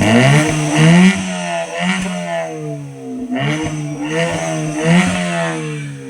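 Ford Fiesta Mk7 engine revved repeatedly through a straight-through CSC exhaust, its pitch climbing and dropping with each blip of the throttle, with a few sharp pops along the way.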